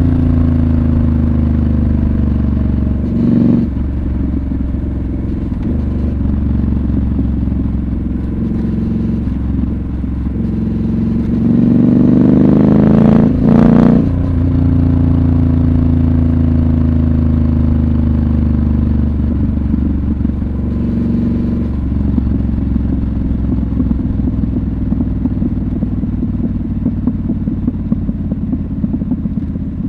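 Triumph Scrambler 1200 XC's 1200 cc parallel-twin engine heard from the saddle while riding, its note mostly falling as the rider rolls off, broken by gear changes a few seconds in and about two-thirds through. Near the middle it revs up briefly before another shift, and for the last third it runs at a lower, lumpier note.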